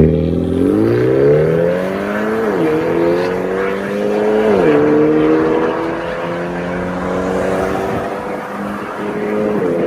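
BMW 330i's B48 turbocharged four-cylinder through an MS-R valved cat-back exhaust, accelerating: the exhaust note climbs in pitch, drops at an upshift about two and a half seconds in and again near five seconds, then rises slowly and steadily.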